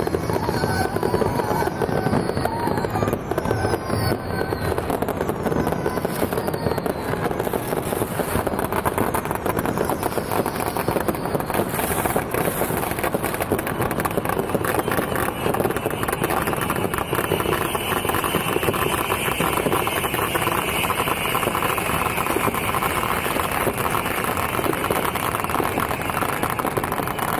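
Fireworks and firecrackers crackling densely without a break, with several falling whistles in the first few seconds. A steady high tone joins about halfway through.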